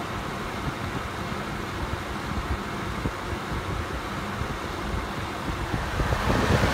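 Holmes Blizzard desk fan running on medium speed: a steady rush of air, getting louder near the end.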